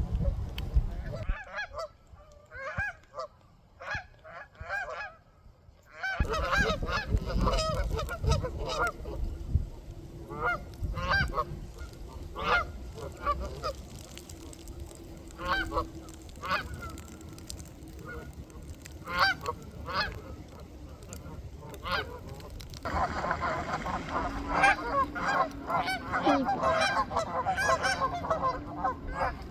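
A flock of waterfowl on a pond calling with loud honks and quacks. Single calls come a few at a time at first, then about three-quarters of the way through many birds call at once in a dense chorus.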